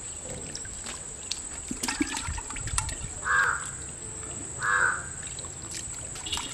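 Two harsh, caw-like bird calls, about a second and a half apart, each brief.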